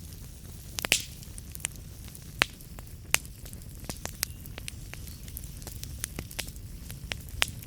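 Wood fire crackling: irregular sharp pops and snaps over a low steady rumble and hiss, with a cluster of louder pops about a second in.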